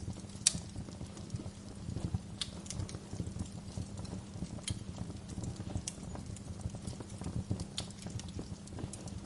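Fire crackling in a fireplace: a dense low crackle with sharp pops every second or two, the loudest about half a second in.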